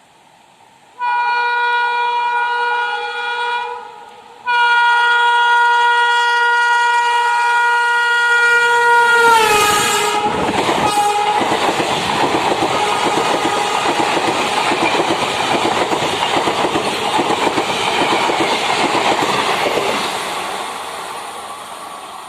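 WAG-9 electric locomotive horn sounding twice: a blast of about three seconds, then a longer one whose pitch drops as the engine passes at speed. Then the rush and clatter of the parcel train's vans running through, fading near the end.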